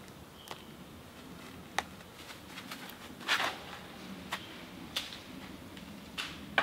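A handful of short sharp clicks and knocks, irregularly spaced, over a quiet outdoor background; the longest and loudest comes about halfway through.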